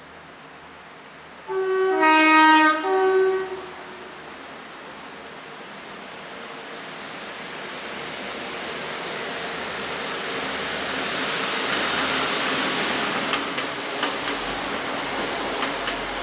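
A train's two-tone horn sounds for about two seconds, its pitch stepping down and back up. A train then runs past, its noise building to a peak about three-quarters of the way through. A high whine drops in pitch near the peak, and wheels click over the rail joints near the end.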